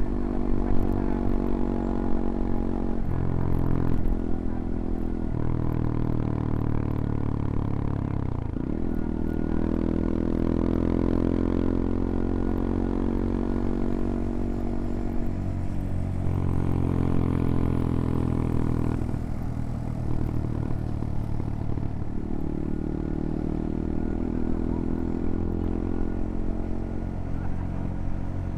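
CFMoto Papio XO-1's small single-cylinder four-stroke engine running under way, its pitch climbing and dropping as the rider works the throttle and shifts gears. There is a sharp dip about eight and a half seconds in, followed by a long climb in revs, and further drops around sixteen, nineteen and twenty-two seconds.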